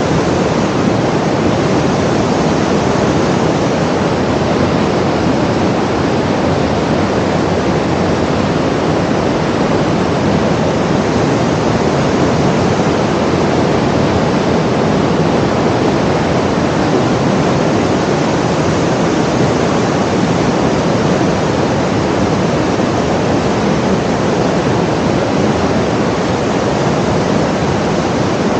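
Steady, unbroken rushing noise at an even level throughout.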